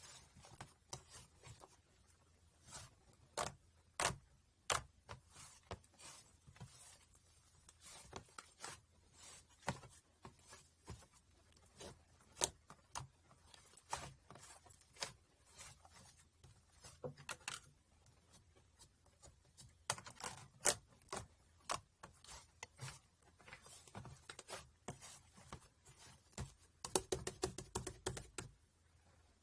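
Irregular light clicks and taps close to the microphone, with a quicker run of clicks near the end.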